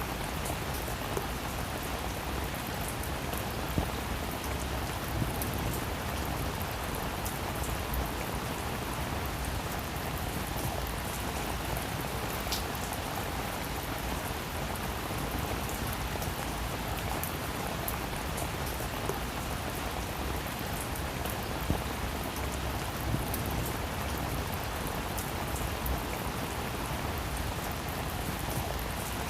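Steady rain falling on a roof, an even hiss with scattered louder drop ticks.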